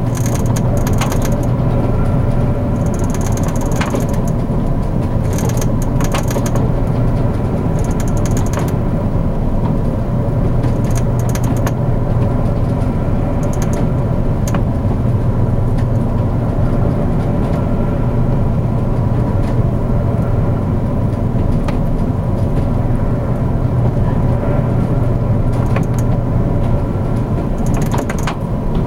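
Steady low drone of a large car ferry's machinery, with irregular bursts of creaking and rattling from the ship's fittings as the hull works in typhoon seas.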